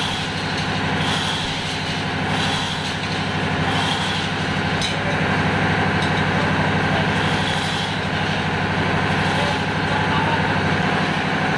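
Running machinery in a ship's engine room: a steady, even drone with a constant hum, unchanging throughout.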